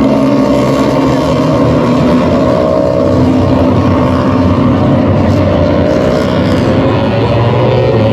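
MotoGP racing motorcycle engines running at high revs, their pitch sliding up and down as the bikes accelerate and brake.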